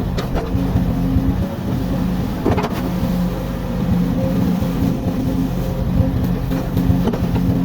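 Komatsu hydraulic excavator's diesel engine running steadily, with a few short knocks over it while it digs out a ditch.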